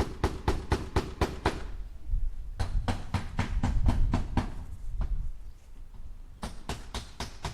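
Hammer driving nails into wood with quick, even strikes, about six a second, in three runs broken by short pauses about one and a half and five seconds in.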